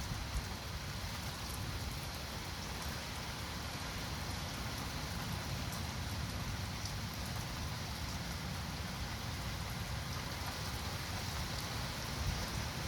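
Steady rain falling, with a low rumble underneath during a thunderstorm.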